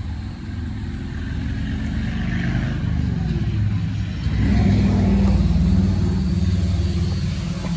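Car engine and road noise while driving. The engine pulls harder and rises in pitch about four seconds in as the car speeds up.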